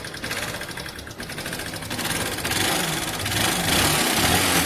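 Honda Shine's 125 cc single-cylinder four-stroke engine running with a lot of mechanical noise from inside the engine, getting louder from about two seconds in. The teardown traced the noise to a damaged exhaust valve seat, side play in the crankshaft and a worn crank bearing.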